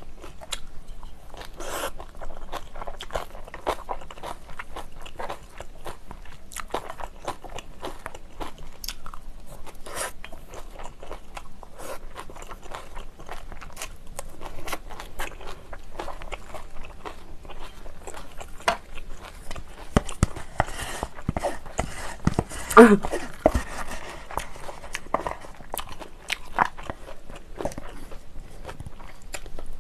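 Close-miked eating of spicy instant noodles topped with chopped cheongyang green chili peppers: steady wet chewing and biting with crisp crunches. One louder knock comes about two-thirds of the way through.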